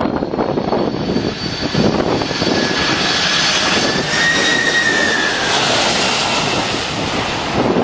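Jet aircraft passing low overhead: a loud, continuous engine noise with a whine that rises and then falls in pitch around the middle as it goes by.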